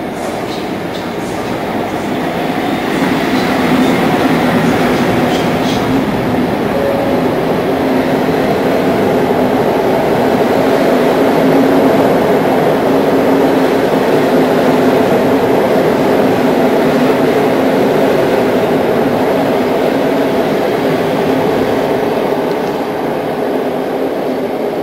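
Passenger train running along an underground station platform: a loud, continuous rumble of wheels on rails with a steady hum through it. It builds over the first few seconds and eases slightly near the end.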